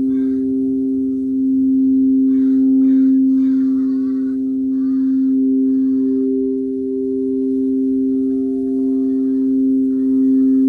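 Crystal singing bowl ringing in a steady sustained hum of two close low tones, with short higher chirping sounds over it a few times.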